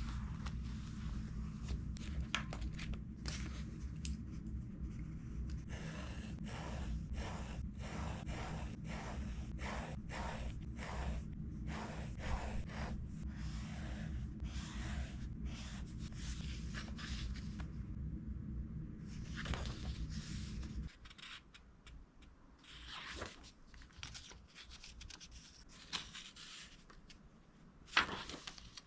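Writing strokes scratching on a book's paper page, a quick run of short strokes in the middle, then a few scattered ones. A steady low hum stops about two thirds of the way through, and a sharp click comes near the end.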